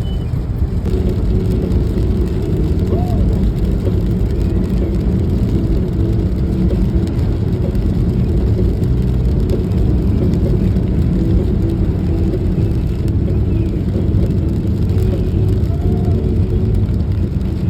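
A vehicle running steadily: an even, low rumble that holds at the same level without rising or falling.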